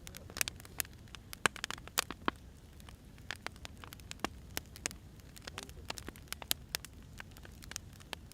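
Wood fire crackling: irregular sharp pops and snaps, several a second, over a low rumble.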